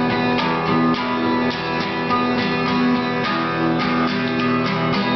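Acoustic guitars strumming chords between sung lines of a song, with a steady rhythm of strokes.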